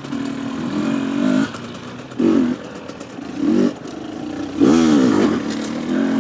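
Husqvarna TE250 two-stroke enduro motorcycle engine running at low revs, with the throttle blipped three times so the pitch rises and falls briefly about two, three and a half and five seconds in.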